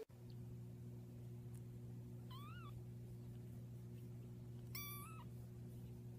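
A domestic cat meowing twice, two short high calls, over a faint steady low hum.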